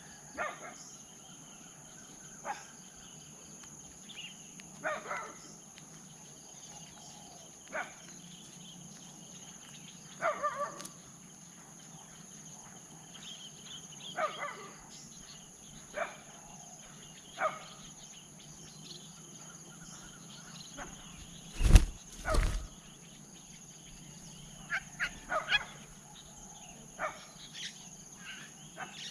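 Short bird calls now and then over a steady high insect drone, with two loud knocks close together about 22 seconds in.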